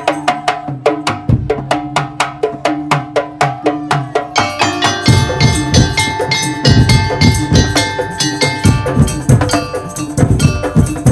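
Madurese tong-tong percussion music: rapid, even clicks of wooden or bamboo slit drums with ringing pitched tones, joined about four and a half seconds in by heavy deep drum beats and sustained melodic tones from the full ensemble.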